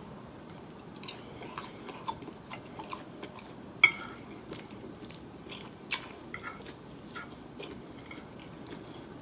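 A person chewing a mouthful of steak, with many small wet mouth clicks and smacks. There are two sharper clicks about four and six seconds in, as a fork taps the plate.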